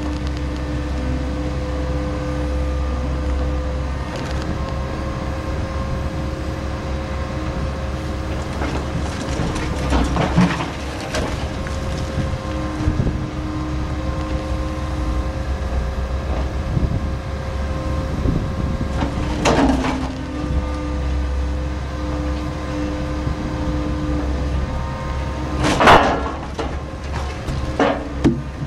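Liebherr log loader running steadily with a low engine hum and a steady hydraulic whine, with a few knocks of logs as they are handled onto the truck, the loudest near the end.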